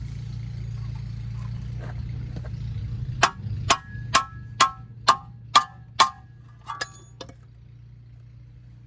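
Seven ringing metal-on-metal hammer blows, about two a second, then two lighter taps, over a steady low hum: a hammer knocking on car suspension parts to free a bent control arm.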